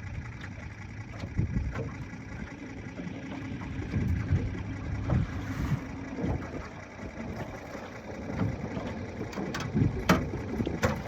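Wind buffeting the microphone and choppy water slapping against an aluminum jon boat, an uneven low rumble with a few sharp knocks on the hull, the loudest near the end.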